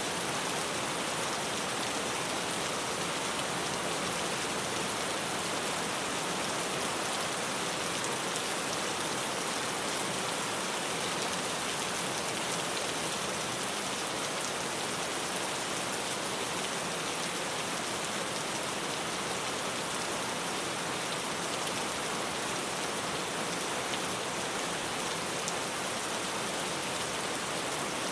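Steady rain falling on a tin roof: an even hiss of many drops at a constant level, with no thunder.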